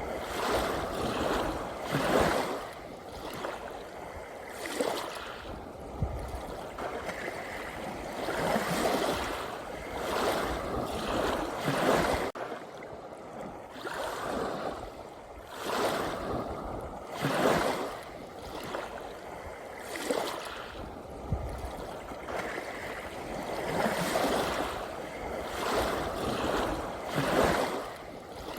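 Sea waves washing in, a rush of water swelling and falling away every two to three seconds.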